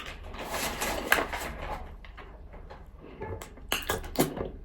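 Nzu (edible white clay) being bitten and chewed: scattered sharp crunches, several close together near the end.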